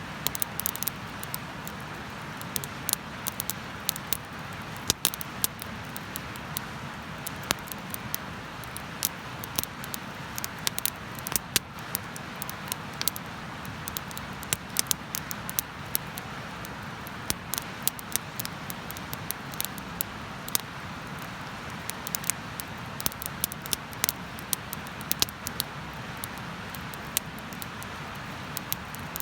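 Wood bonfire crackling, with frequent irregular sharp pops over a steady hiss.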